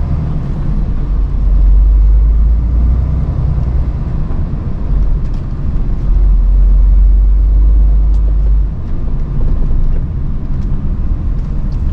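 Lorry's diesel engine rumbling, heard from the cab while it is driven slowly; the deep rumble eases off about nine seconds in.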